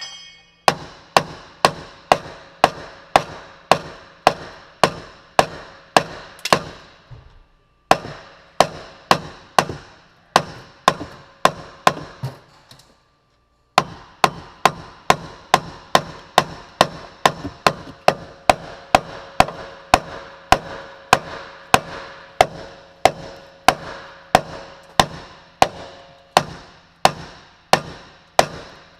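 Hammer blows on the steel frame at about two and a half strikes a second, each with a short metallic ring, with two brief pauses partway through. The blows are striking the freshly welded frame section, which holds without bending much.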